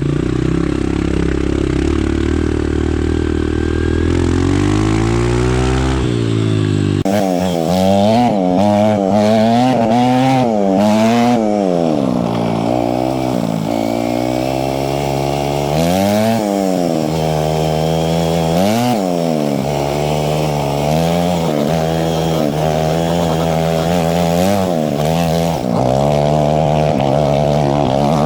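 Two-stroke dirt bike engine being ridden, revving up and down over and over as the throttle opens and closes, with sharp rises and drops in pitch from about seven seconds in.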